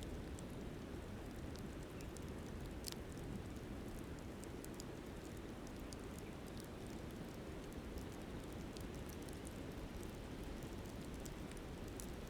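Steady rushing of a flowing river, with frequent small, sharp crackles and pops from a burning wood campfire.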